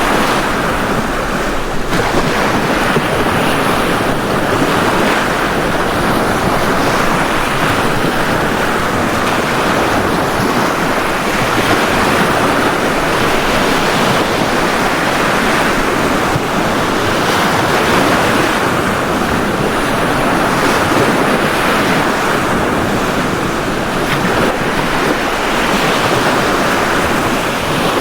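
Ocean surf on a beach: waves breaking and washing in, a steady rush of noise.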